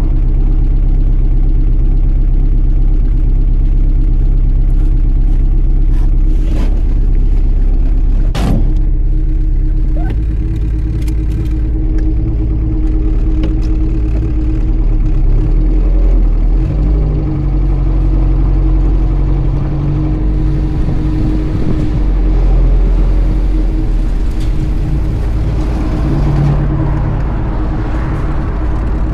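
1963 Triumph TR4's four-cylinder engine idling cold at a steady pitch, a single sharp knock about eight seconds in, then the engine revving up and down as the car pulls away and is driven through the gears.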